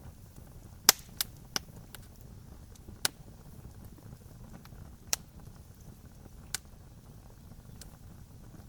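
Wood fire crackling: sharp pops and snaps, the loudest about a second in, over a low steady rumble of burning.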